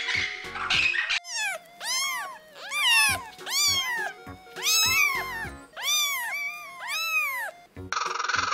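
Kittens mewing: about eight high-pitched mews in a row, each rising and then falling in pitch, over background music. A harsh, noisy sound fills the first second and comes again near the end.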